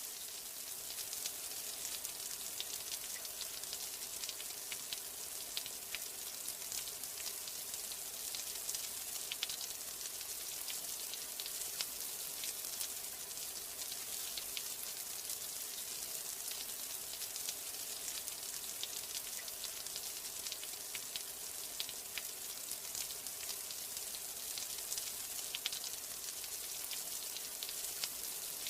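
Steady rain: a dense, even hiss with many small sharp drop ticks scattered through it.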